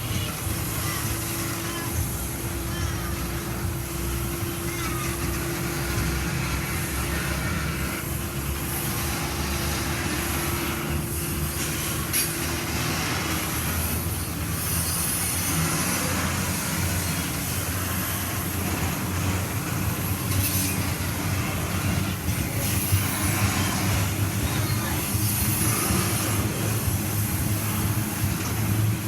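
Grain train's hopper wagons rolling steadily past, wheels running on the rails.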